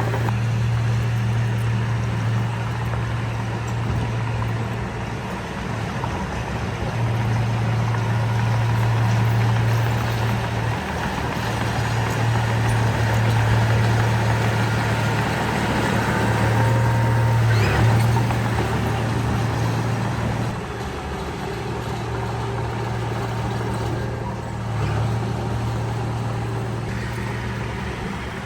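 Heavy diesel engine of a construction machine working steadily, a deep hum whose loudness rises and falls as it takes load, with a single sharp knock or clank about two-thirds of the way through.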